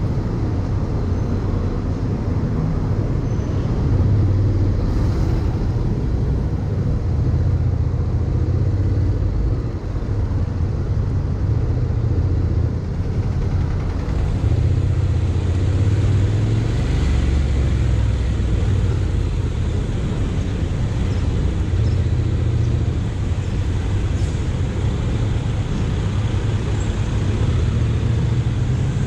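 Steady low wind rumble and road noise from riding a Honda X-ADV 750 scooter, its 745 cc parallel-twin engine running under the wind.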